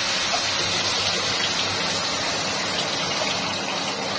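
Onion and spice masala sizzling steadily in hot oil in a pan, with a little water in it: a steady hiss with a few faint small pops.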